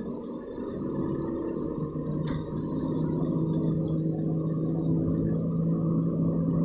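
Steady engine and road hum heard inside a moving car's cabin, with a low droning tone that grows stronger about two seconds in and a couple of light clicks.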